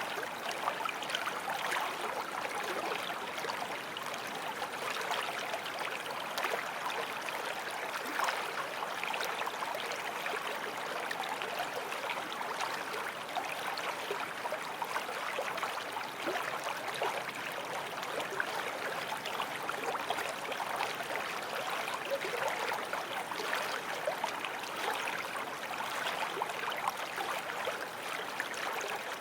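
Forest stream flowing steadily over stones, a constant babbling and trickling rush of water.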